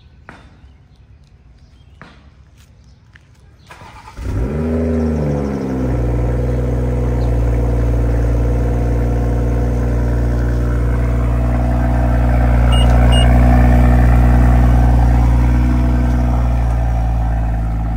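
A 2023 BMW M440i's B58 3.0-litre turbocharged inline-six cold-starting on its factory downpipe. After a few faint clicks it catches about four seconds in, the revs flare up and drop back, and it settles into a steady fast cold idle that eases slightly near the end.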